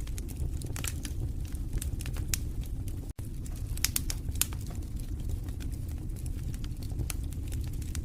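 Wood fire in a fireplace crackling, with irregular sharp pops over a low steady rumble of the flames. The sound cuts out for an instant about three seconds in.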